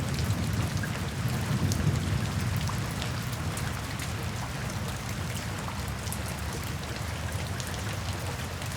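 Steady rain falling into puddles and standing water, many single drops ticking over a continuous hiss. A low rumble runs beneath and eases slightly after about three seconds.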